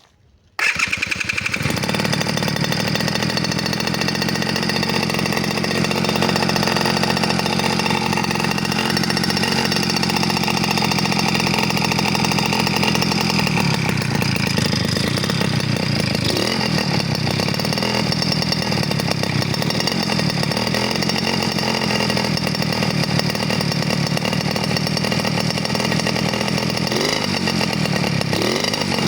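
Small engine running loud and raspy through an exhaust whose muffler has been gutted and its baffle removed, coming in suddenly about half a second in and running steadily, with a few brief changes in pitch near the end.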